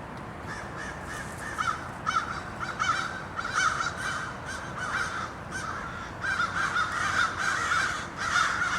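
A flock of American crows cawing, many harsh caws overlapping, growing thicker in the second half. The cawing is taken for a warning to the other crows about a hawk hovering over the area.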